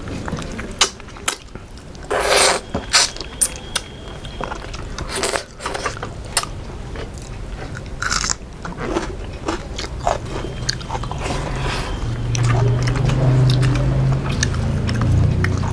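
Close-miked mukbang eating: chewing and crunchy bites of fried fish eaten by hand, with sharp crunches scattered throughout, most of them in a cluster a couple of seconds in. A low hum runs for a few seconds near the end.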